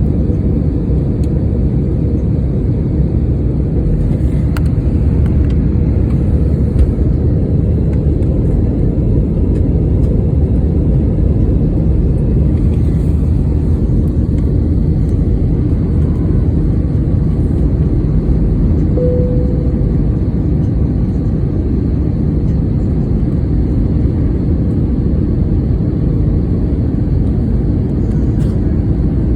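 Steady roar of an airliner's engines and rushing air heard inside the passenger cabin in flight. A brief single tone sounds about two-thirds of the way through.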